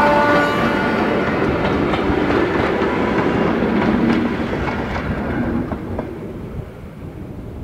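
Passing train of coaches rolling by, wheels clicking over the rail joints, the sound growing steadily fainter as the train recedes.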